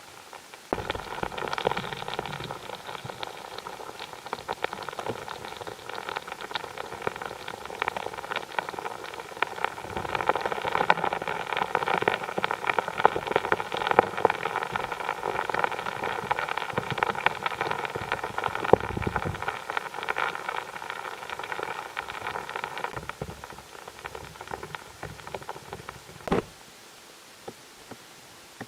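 Borehole drilling rig running: a steady machine whine of several even tones under dense rattling. It starts about a second in, cuts off a little over 20 seconds later, and a single knock follows a few seconds after.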